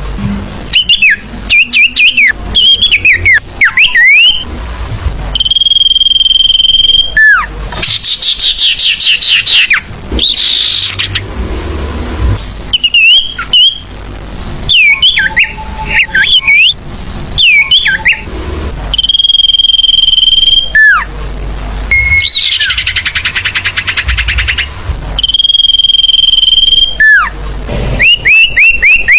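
Lure-call recording of a sirfu, a small songbird, singing: a steady high whistle held a second or so that recurs several times, between bursts of quick downward-sliding chirps and fast buzzy trills.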